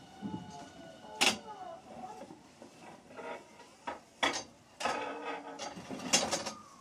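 Osaka Metro 66 series train heard from on board as it slows on the approach to a station: several sharp clanks and knocks of the wheels and bogies over rail joints or points, over a low running noise. The loudest clank comes about a second in and another cluster near the end.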